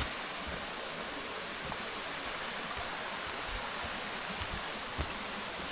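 Small rainforest creek flowing: a steady rush of running water, with a few soft low thumps and a small click about five seconds in.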